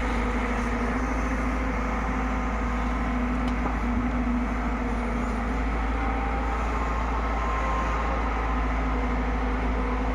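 JCB 3DX backhoe loader's diesel engine running steadily, a constant low drone with no revving or pauses.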